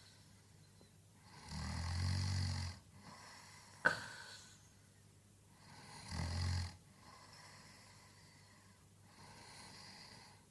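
A sleeping man snoring: two low, rattling snores, about a second and a half in and again about six seconds in. Between them, about four seconds in, comes a short sharp catch in the breath, with quieter breathing in the gaps.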